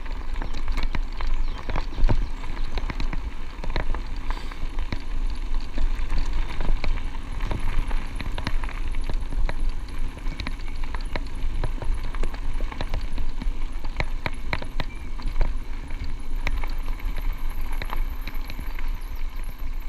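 Electric bike's tyres crunching over a gravel track, with dense irregular clicks and rattles over a steady low rumble.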